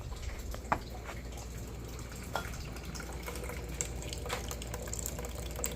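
Coolant draining from the radiator into a bucket in a steady trickle, with a few faint clicks.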